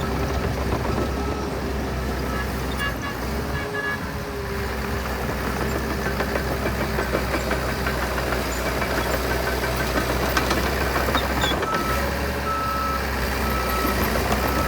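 Heavy diesel earthmoving machinery running steadily under load, with a deep engine hum. A repeating high beep, like a reversing alarm, comes in near the end.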